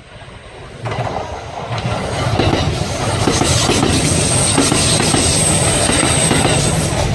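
Kintetsu electric train passing close by: the rushing run of its wheels and the clatter over rail joints, swelling loud within the first few seconds, with a high, thin squeal over it in the second half.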